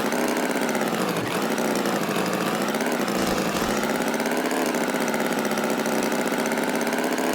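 Tractor engine running steadily, its pitch dipping briefly and recovering a couple of times.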